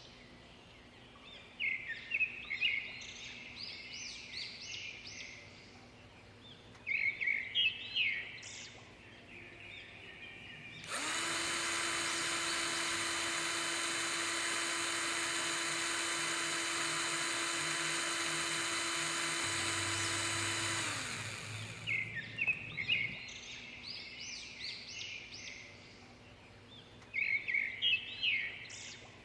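A small motor runs at a steady, unchanging pitch for about ten seconds in the middle, switching on and off abruptly. Birds chirp in short bursts before and after it.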